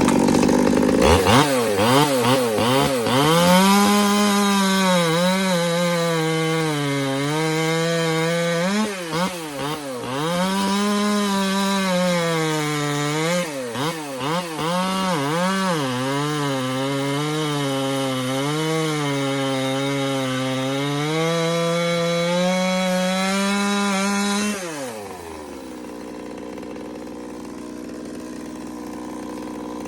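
Stihl 200T top-handle two-stroke chainsaw running hot, revved up and blipped up and down over and over at high speed, then dropping back about 25 seconds in to a steady idle. It returns to idle cleanly with no hanging idle, a sign the cracked tank hose and faulty tank vent are fixed.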